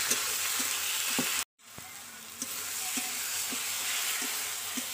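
Onions, tomatoes and ginger-garlic paste sizzling in a hot pan while a spatula stirs and scrapes, making scattered clicks against the metal. The sound drops out for a moment about one and a half seconds in, then the sizzling and stirring go on a little quieter.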